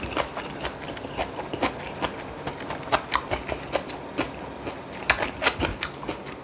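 A person eating braised kimchi and pork back ribs close to the microphone: wet chewing and mouth smacks, heard as irregular sharp clicks several times a second.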